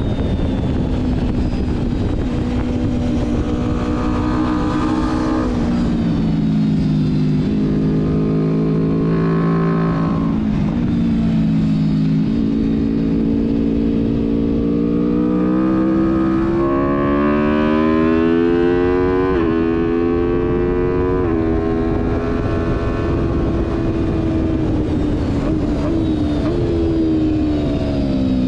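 Sport motorcycle engine on a fast track lap, its note climbing and falling as it works through the gears, with sudden drops in pitch at the gear changes, over a steady rush of wind noise.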